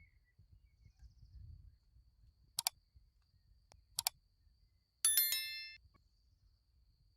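Two short sharp metal taps, then a single ringing metal strike that dies away in under a second, as from a steel hammer head striking metal.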